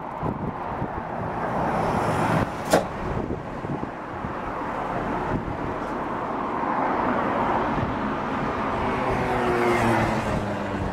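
Steady rumble of trains in a rail yard, slowly growing louder, with a faint motor whine near the end. A single sharp click comes about three seconds in.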